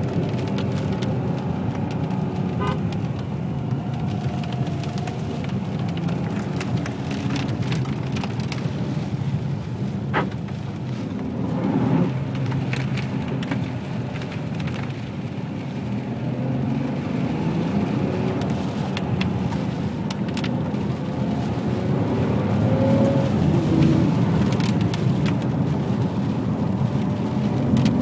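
Ferrari 599 GTB Fiorano's Enzo-derived V12 engine running as the car drives, with tyre hiss from the wet road. The engine grows louder over the last few seconds.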